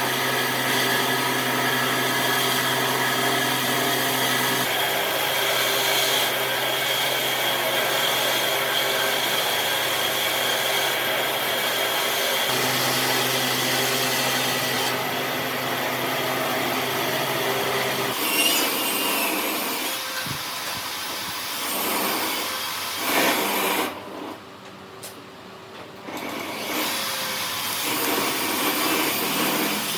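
An electric power tool running and working wood, with a steady motor hum whose pitch shifts a few times; it drops away for a couple of seconds near the end before starting up again.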